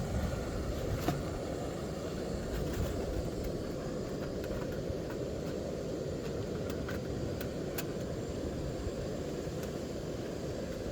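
Portable camp stove burner running steadily, a low, even rush of flame heating a pot of water, with a few faint ticks.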